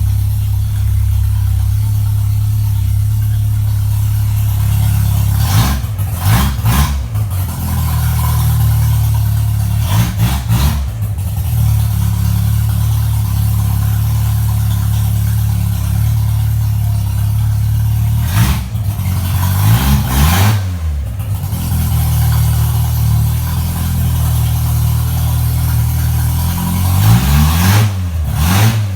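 Straight-piped LN7 engine idling with a steady low exhaust drone, revved up briefly several times and dropping back to idle each time.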